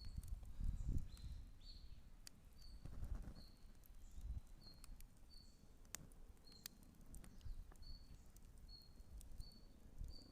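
Campfire crackling with scattered sharp pops, while a bird repeats a short high chirp about once a second.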